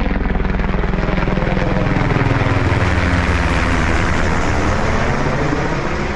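Low-flying Coast Guard helicopter passing overhead, a loud pulsing rotor-and-engine sound that swells to its loudest in the middle and eases off toward the end.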